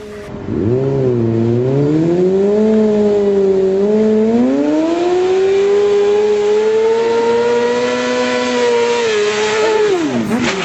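Motorcycle engine accelerating hard. Its note climbs and dips twice as it pulls through the gears, holds high for several seconds, then drops sharply near the end.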